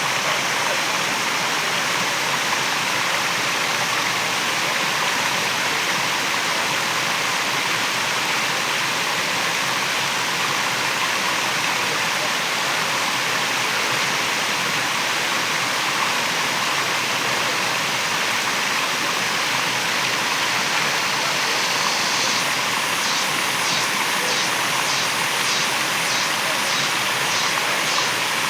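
Waterfall rushing steadily. Near the end a high rhythmic pulsing, about two or three beats a second, joins in.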